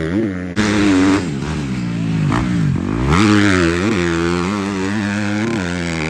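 Motocross bike engine revving as it is ridden, its pitch rising and falling over and over with the throttle; about two and a half seconds in it drops low, then climbs again.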